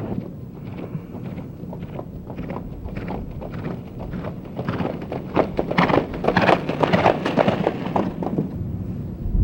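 Horse hooves clopping in quick, uneven strikes, growing louder past the middle, then fading toward the end, as of horses going by.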